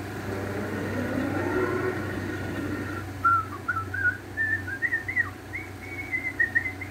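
Someone whistling a short tune of quick notes that step upward, starting about three seconds in, after a stretch of steady noise, over a constant low hum.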